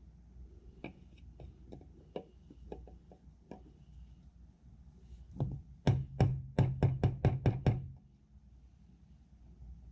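Scattered light clicks of hand tools, then a quick, even run of about nine sharp knocks at roughly five a second, during work on a cultivator's rotary shaft seal.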